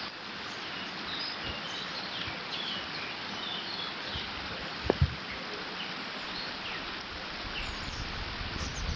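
Water running through a beaver dam in a steady rush, with small birds chirping now and then over it. Two sharp low thumps come close together about five seconds in.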